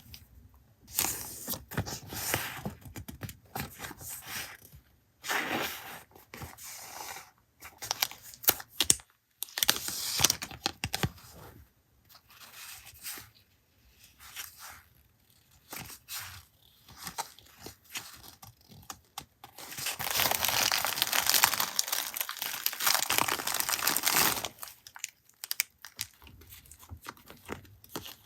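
Paper being handled close up, crinkling and tearing in irregular bursts, with a longer stretch of continuous crinkling about twenty seconds in.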